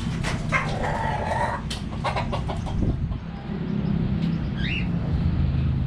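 Budgerigars (Australian parakeets) calling: a buzzy squawk about half a second in, a run of short chirps around two seconds, and a brief high call near the end, over a steady low hum.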